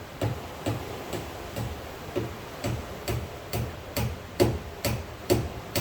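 A steady series of hollow knocks, about two a second, each a dull thud with a short ring, getting a little louder in the second half.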